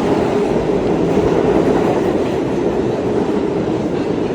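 New York City subway train in motion: a steady, loud noise of wheels on rails and running gear.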